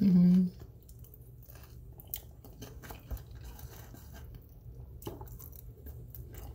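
A person chewing and biting into a honey barbecue chicken wing, with small crunches and mouth clicks scattered throughout. A short hummed voice opens it.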